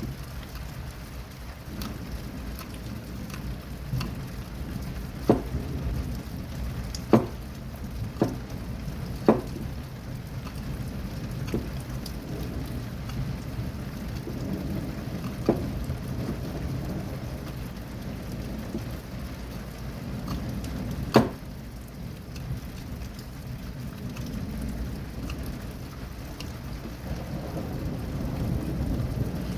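Steady rain with low rumbling thunder that swells near the end. Sharp taps come through now and then, the loudest about two-thirds of the way in.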